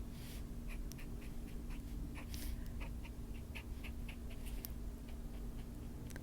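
Short scratchy dabbing strokes of a Posca paint pen on paper, a few a second, with a few louder soft rushing noises and a steady low hum underneath.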